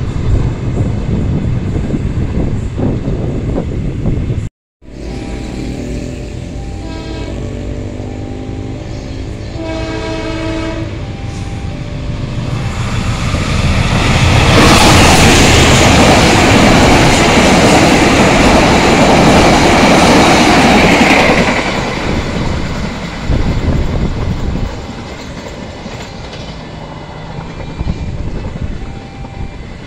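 Diesel-electric locomotive sounding a multi-tone horn in several blasts, then the train passing close with a loud rush of engine and wheels on the rails. The rush fades as the train moves away.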